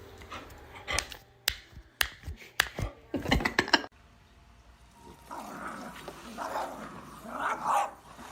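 A dog's noises, with a run of sharp knocks or clicks in the first few seconds, a brief hush, then softer sounds.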